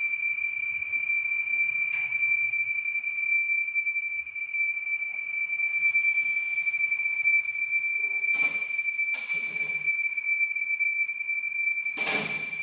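Steady high-pitched whistle from a 2015 Audi A8 L's engine, holding one unchanging pitch, the sign of a failed oil separator (PCV valve) letting air whistle through. A few brief bursts of noise come about two-thirds of the way in and near the end.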